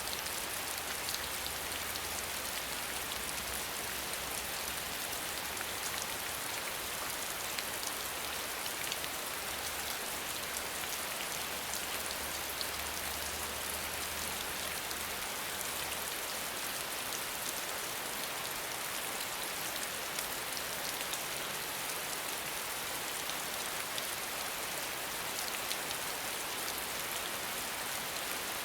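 Steady rain falling and pattering on a surface, an even hiss dotted with many small drop ticks.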